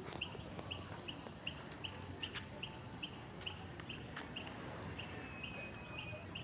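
Night insects calling: a steady high whine and a short chirp repeated about three times a second, with scattered sharp crackles from a bonfire.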